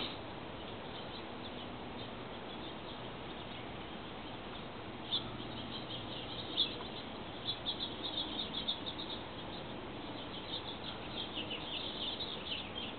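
Small birds chirping in short, quick high notes, more often from about halfway through, over a faint steady hiss.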